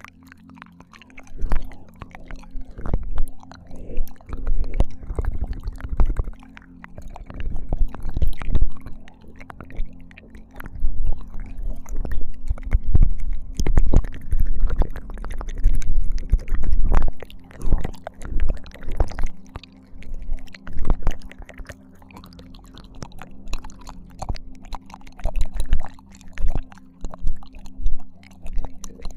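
ASMR ear-licking mouth sounds close to a binaural microphone: irregular wet clicks, smacks and slurps with low thumps against the mic, coming in waves and busiest in the middle.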